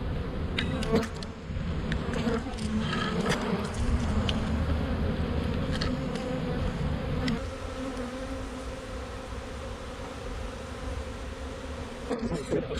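A large honeybee swarm buzzing: the steady hum of many bees in flight, a little quieter after about seven seconds.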